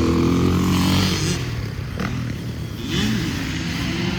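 Dirt bike engine running, its pitch falling and rising as the throttle changes.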